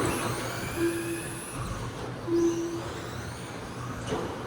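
Electric motors of 13.5-turn brushless RC stadium trucks racing, a high-pitched whine rising and falling as the trucks accelerate and slow. Two short low steady tones sound about a second and a half apart.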